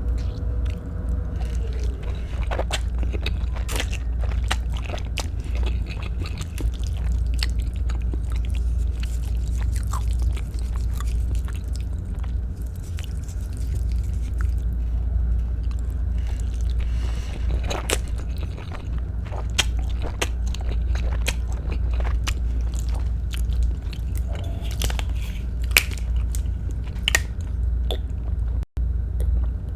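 A person chewing Filipino-style spaghetti close to the microphone, with many short, irregular wet mouth clicks over a steady low hum.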